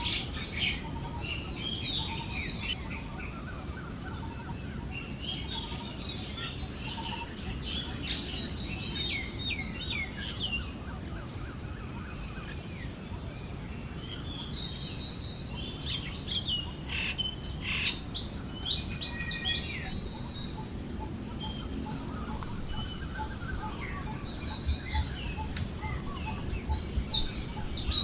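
Forest birds chirping and calling, with a busier run of chirps about two-thirds of the way in, over a steady high insect drone and a low rumble of breeze.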